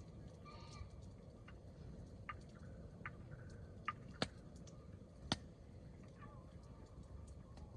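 Hardwood campfire crackling: scattered sharp pops over a low steady rush, the loudest two about four and five seconds in.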